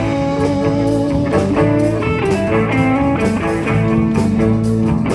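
Live band playing an instrumental break with guitar over a steady beat.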